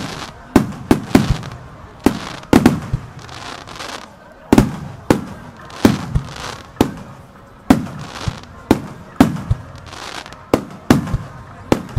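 Aerial firework shells bursting in quick succession in a starmine barrage: about twenty sharp booms, each trailing off in a rolling echo, with a short lull about three seconds in.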